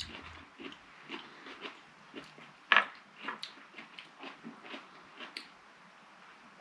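Pickled onions being chewed: a run of irregular short crunches, with one louder crunch about three seconds in.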